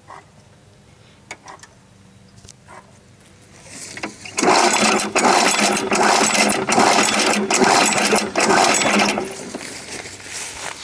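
Small petrol lawn mower engine starts about four seconds in, runs loudly for about five seconds, then dies away near the end. A few faint clicks come before it.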